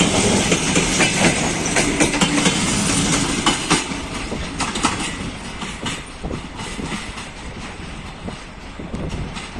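Arriving passenger train rolling past, wheels clicking over rail joints; the sound grows fainter as the train slows and draws away.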